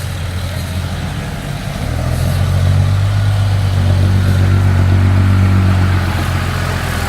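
A vehicle engine running with a low, even hum that grows louder about two seconds in and eases off a little near the end.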